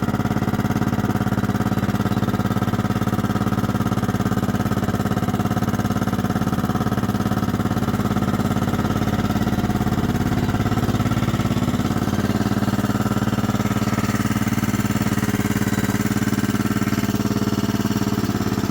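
1998 Kohler Command 16 hp lawn mower engine running steadily at a fast idle while it warms up. It is kind of clanky, which it does when cold or after sitting a while, and it should quiet down once oil is moving through it.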